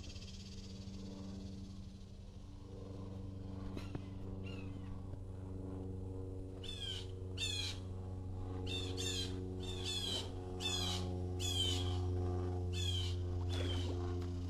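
A bird calling over and over with short, high calls that each drop sharply in pitch, starting about halfway through. Under it runs a steady low hum.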